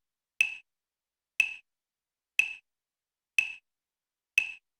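Five short ticks, evenly spaced one a second, each with a brief high ringing tone.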